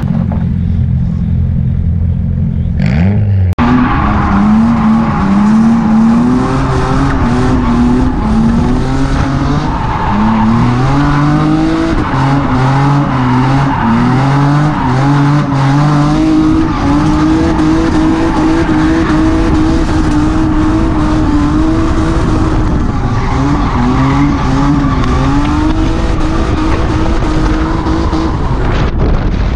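Swapped Toyota 1JZ turbocharged straight-six in a Nissan 350Z drift car. It idles low and steady for the first few seconds, then about three and a half seconds in it is suddenly revved hard, its pitch repeatedly climbing and dropping as the car drifts, with tires squealing underneath.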